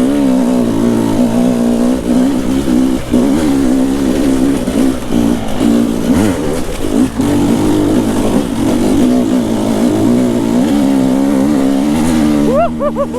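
Enduro dirt bike engine running under way off-road, its revs rising and falling continually with the throttle, with a few quick throttle blips near the end.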